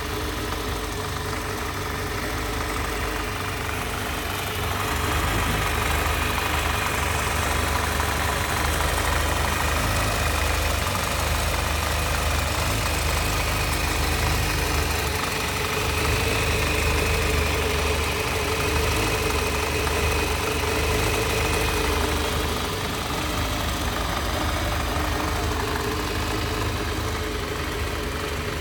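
Kawasaki Zephyr 750's air-cooled inline-four idling steadily. It runs a little louder for a stretch in the middle, then settles back. This is a high-mileage engine, about 103,000 km, presented as running in good condition.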